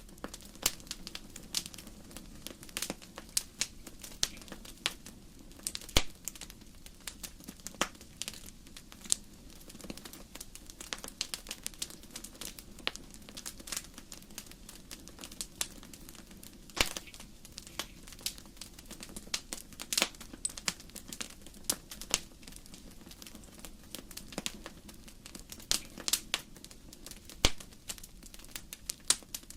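Firewood burning in a fireplace, crackling with a constant scatter of small sharp pops and a few louder snaps, over a low steady rush of the fire.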